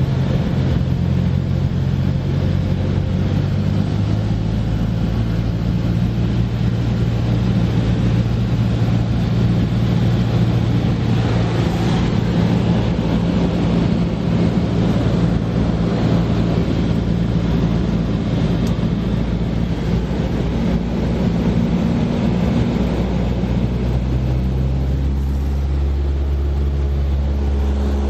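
Cessna 172S's four-cylinder Lycoming engine and propeller droning steadily in flight. The engine note changes about 23 seconds in.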